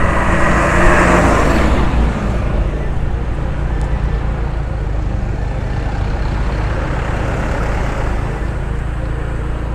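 Steady road and engine rumble of a car driving slowly through town traffic. A louder rushing swell of passing traffic comes in the first two seconds, then fades back to the steady rumble.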